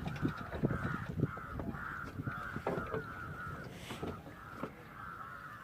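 A bird calling over and over, about twice a second, with a few light knocks underneath.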